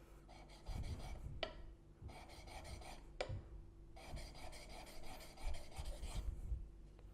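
Laminated steel blade's bevel being rubbed back and forth on a wet 600-grit diamond sharpening plate: gritty scraping in three short runs of strokes, with a sharp click between the runs twice.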